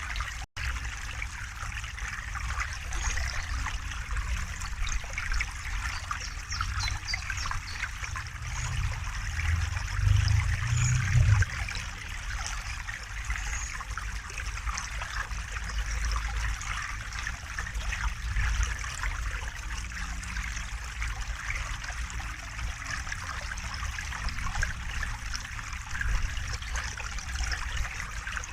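River water flowing and babbling steadily over stones. A low rumble swells briefly about ten seconds in, and the sound drops out for a split second near the start.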